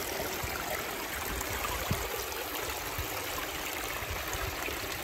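Water running steadily over the gravel weir of a small negative-edge waterfall into its reservoir, an even trickling rush.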